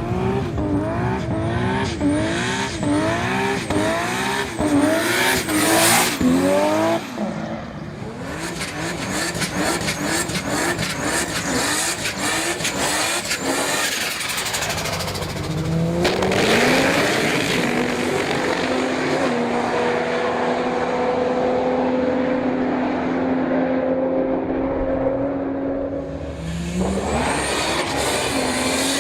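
Turbocharged Ford Barra 4.0-litre straight-six engines revving hard. The first seconds hold a fast run of short rising revs with sharp cracks. Later comes a long pull whose pitch climbs slowly, then drops and climbs again near the end.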